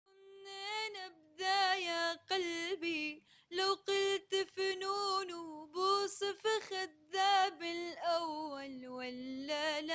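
A solo female voice singing a Levantine Arabic song without accompaniment, in ornamented phrases with vibrato, separated by short breaths.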